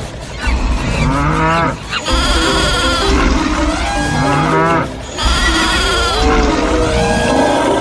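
Cattle mooing as a stampede sound effect, the same calls repeating about every three seconds.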